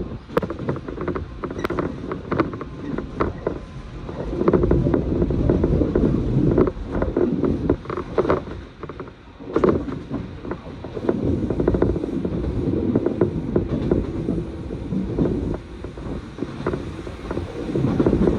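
Train running at speed, heard from inside the carriage: a steady low rumble of wheels on rails, with scattered clicks and knocks that swell and ease every few seconds.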